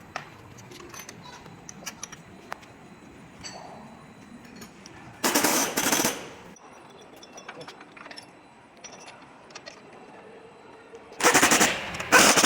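Pneumatic impact wrench hammering bolts in two rattling bursts of about a second each, around five and eleven seconds in, with light tool clinks between.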